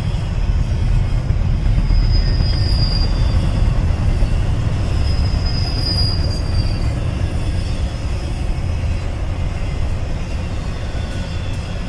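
BNSF intermodal freight train rolling past close by: a steady rumble of wheels on rail, with a brief high wheel squeal about two seconds in and another about five seconds in.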